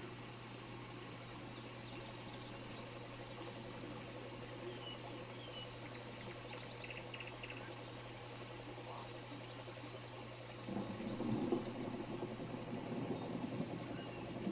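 Steady rain hiss with a few faint bird chirps; about eleven seconds in, a louder low rumble of distant thunder begins and continues.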